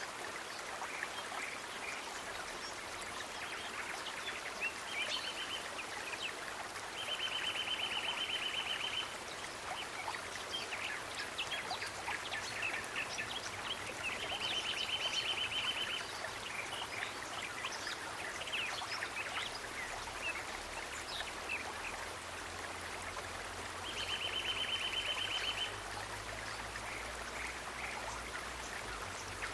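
Nature ambience: a steady rush of flowing water with scattered short bird chirps. A fast, even trill about two seconds long comes three times.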